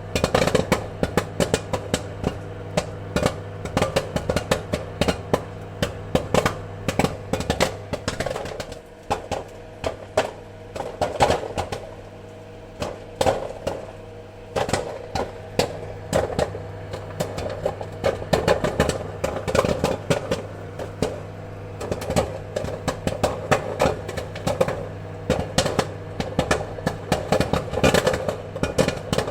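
Popcorn kernels popping in rapid, irregular cracks over a steady low hum. The pops thin out for several seconds in the middle, then come thick and fast again.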